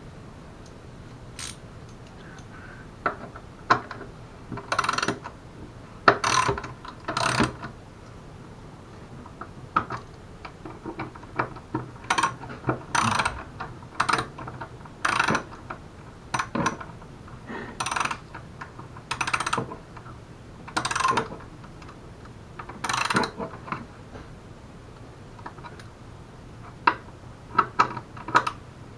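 Ratchet wrench turning bolts on a mobility scooter's front bumper: short bursts of ratcheting clicks every second or two, with pauses between strokes and a longer pause a little after halfway.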